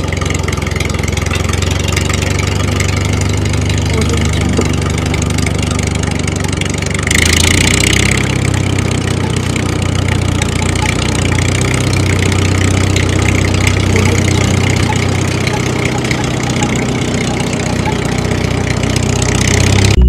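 Tractor engine idling steadily, with a short hiss and a change in the engine note about seven seconds in.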